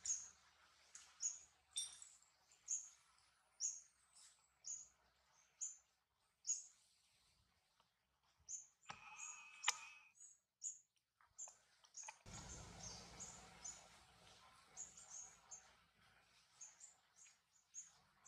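A bird chirping: short, high chirps repeating about once a second. About twelve seconds in there is a couple of seconds of rustling noise.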